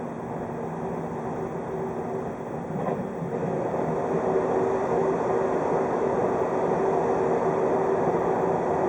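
Running noise of a 583 series electric train heard from inside the car: wheels on the rails with a steady hum, growing louder about three seconds in.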